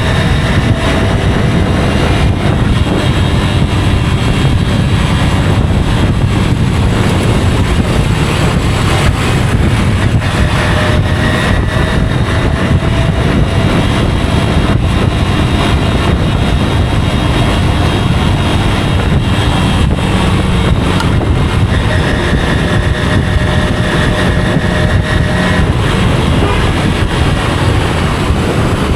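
Motorcycle under way, its engine running steadily under heavy wind and road noise on the microphone.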